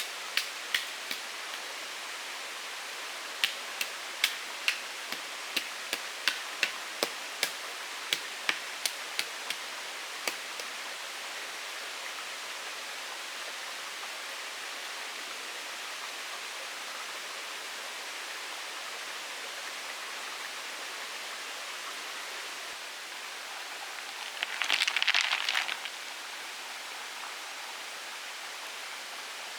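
A steady watery hiss of rain or running water, with a run of sharp knocks or taps, about two a second, through the first ten seconds. A short rustling scrape comes near the end.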